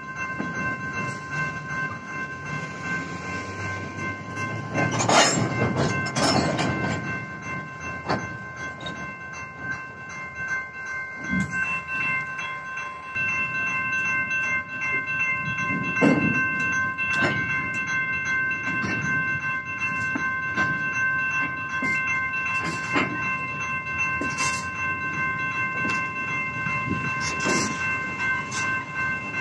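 Freight train's boxcars rolling through a grade crossing, with a steady rumble and scattered clanks and knocks from the wheels and couplers; the loudest knocks come about 5 and 16 seconds in. Over it the active crossing signal's bell rings steadily.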